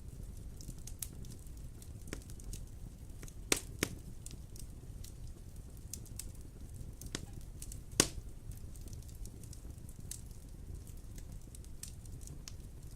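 Wood fire crackling in a fireplace: a steady low rumble with scattered sharp pops and snaps. Two louder pops come close together about three and a half seconds in, and the loudest single crack comes about eight seconds in.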